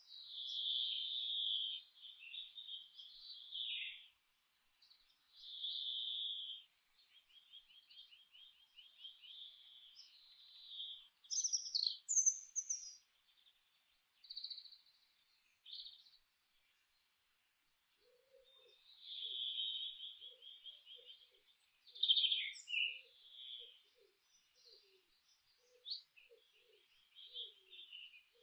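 Songbirds singing: a run of varied chirps, warbles and quick trills with short pauses between phrases. From about two-thirds of the way in, faint low short notes also repeat one to two times a second.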